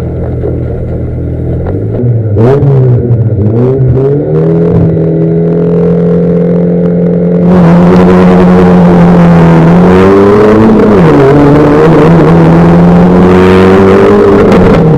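Rallycross car engine, a V1600-class Fiat Bravo, idling and then revved up and held at high revs on the start line. From about halfway the sound becomes much louder and noisier as the cars launch, with a short drop in revs near the end, like a gear change.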